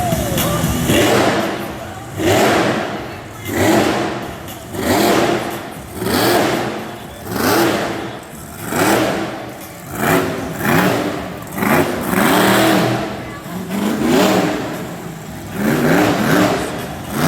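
Monster truck engine revving in short repeated bursts, each rising in pitch and dropping away, about one a second and coming a little quicker near the end.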